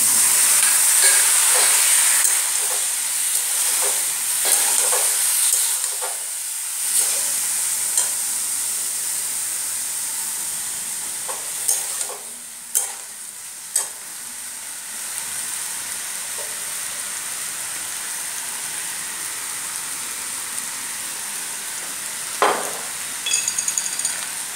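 Boiled macaroni and vegetables sizzling in a metal kadai over a gas flame, with a steel spatula scraping and knocking against the pan as they are stirred. The sizzle is loudest in the first few seconds, as the pasta goes in, and then slowly dies down.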